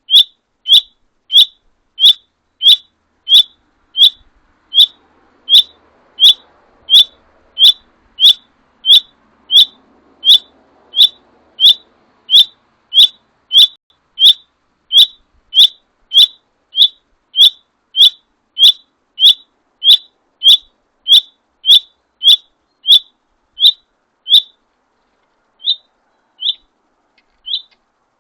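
A bird repeating one short, high, whistled call note over and over, about one and a half times a second in a very even rhythm. The notes become sparser and irregular near the end.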